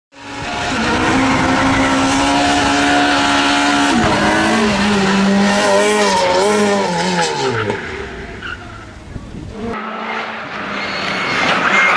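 Rally car engine at high revs, held steady for about four seconds, then the revs waver and fall away with tyres skidding on the surface. Near the end the sound cuts abruptly to a louder, noisier passage.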